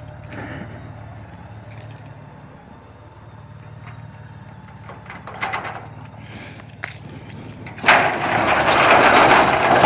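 Motorcycle engine idling with a steady low hum, with a few clicks and knocks. About eight seconds in, a loud rushing hiss starts suddenly and keeps going.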